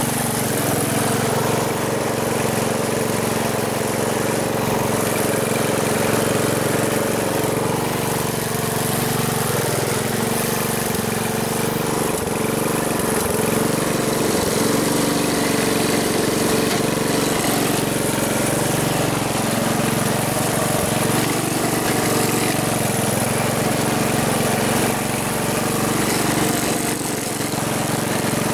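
1969 Chevy Malibu's engine running steadily at a low, even speed.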